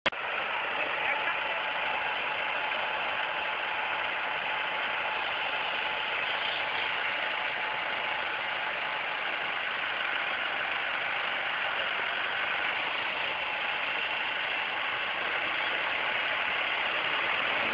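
Tractor diesel engine running steadily, with no change in speed.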